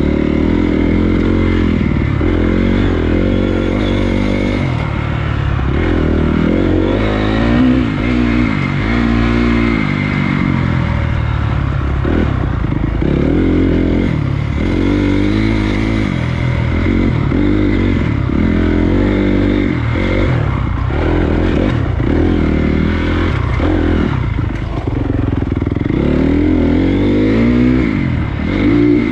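Honda CRF250 dirt bike's single-cylinder four-stroke engine under way on a trail, revving up and falling back over and over every second or two as the throttle is worked, with a steady rushing noise underneath.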